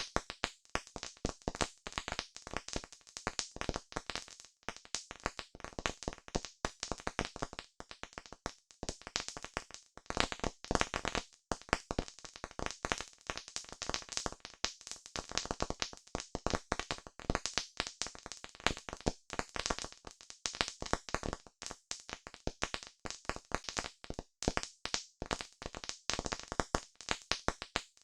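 Campfire crackling: dense, irregular pops and snaps of burning wood, with no steady rhythm.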